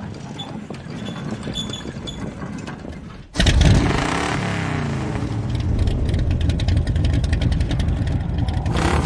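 1969 Dodge Charger (General Lee) V8 engine running low for about three seconds, then suddenly much louder and revving, its pitch swinging up and down.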